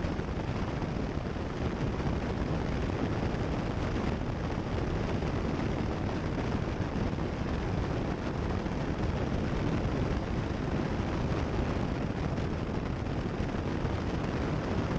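Steady engine and airflow noise of a Cessna 172 Skyhawk in flight, heard as a constant rushing drone through the headset intercom feed.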